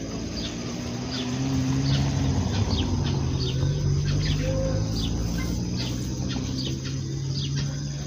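A bird calling over and over, short high falling chirps about twice a second, over a steady low hum.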